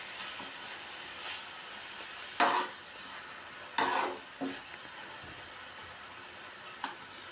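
Grated ash gourd and sugar sizzling in ghee in a nonstick kadai while a metal spoon stirs it, the halwa cooking after the sugar has gone in. Three louder knocks of the spoon against the pan, about two and a half, four and seven seconds in.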